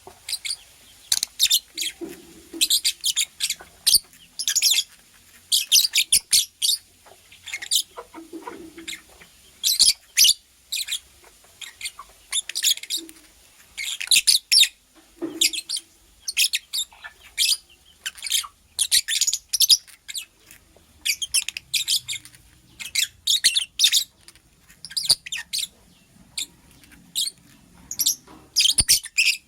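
Lovebird chirping: rapid runs of short, high-pitched chirps in bursts, with brief pauses between them.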